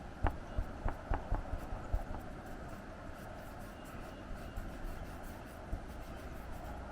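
Watercolor pencil scratching on synthetic paper: a quick run of short strokes in the first two seconds, then steadier scratching, over a low rumble of wind on the microphone.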